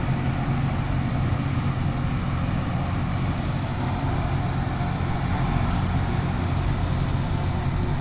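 Loram rail grinder at work: a steady diesel engine drone with an even grinding hiss over it.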